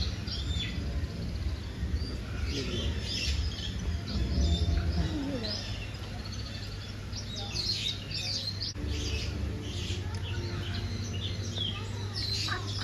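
Many small birds chirping and calling over one another, with a steady low hum underneath.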